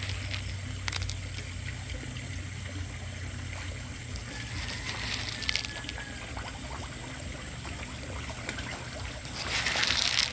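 Water trickling and splashing in a koi pond, over a steady low hum, with louder splashes about five seconds in and again near the end.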